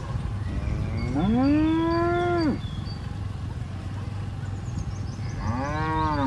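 Cows mooing twice: a long moo that rises and then holds for about a second and a half, and a shorter one near the end, over a steady low rumble.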